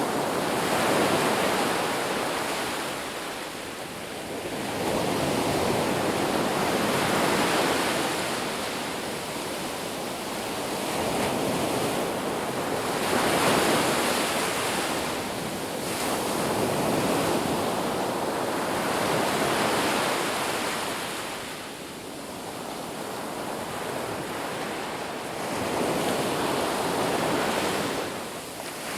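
Ocean surf breaking on a beach, a steady wash of noise that swells and recedes every few seconds as each wave rolls in.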